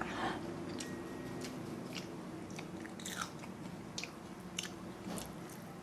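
A person chewing food close to the microphone, mukbang-style, with sharp wet mouth clicks and crunches about once a second.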